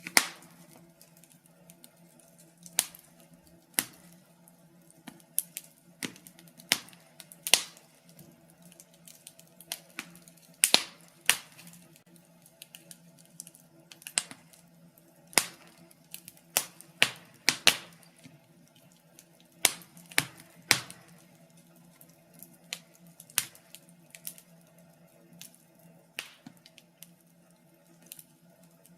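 Wood fire crackling in a fireplace: irregular sharp pops and snaps, some much louder than others, over a quiet bed of soft crackle.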